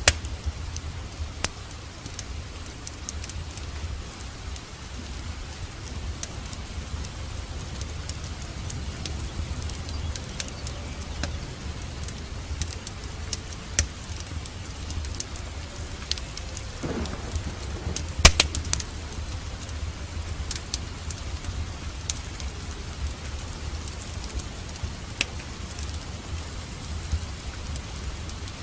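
Steady rain with a continuous low rumble of thunder, mixed with scattered sharp crackles and pops from a wood fire in a fireplace. The loudest is a cluster of pops about 18 seconds in.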